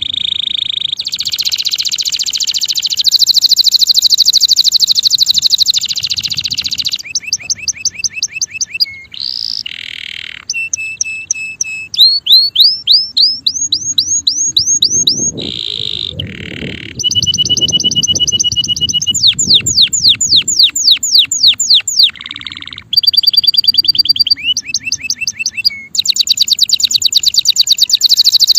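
Male canary singing a long song of fast trills, each a run of one note repeated many times a second, switching to a new phrase every second or two.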